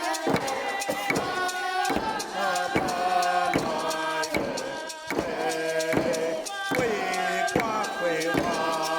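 A group of voices chanting a song together over a steady struck beat, about one strike every 0.8 seconds.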